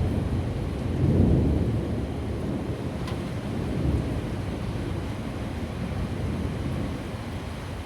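Thunder rumbling low and drawn-out over steady rain, swelling about a second in.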